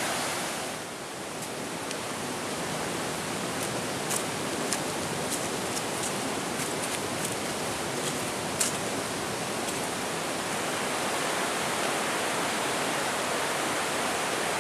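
Rushing water: a steady, full roar of a river or waterfall, with a few faint, sharp clicks in the middle.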